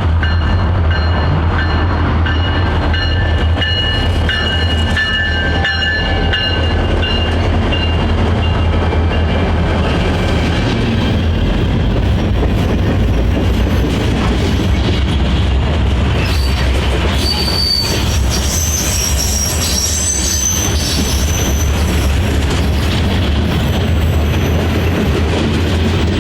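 Diesel-powered train moving on rails, its engine drone steady and loud, with wheel flanges squealing against the rail, first in the early seconds and again more shrilly from about two-thirds of the way through.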